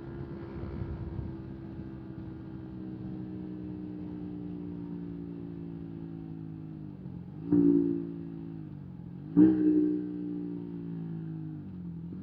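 125 cc single-cylinder motorcycle engine running with its revs slowly falling, then two sharp, louder throttle blips about two seconds apart, each jumping the revs up before they sink away again.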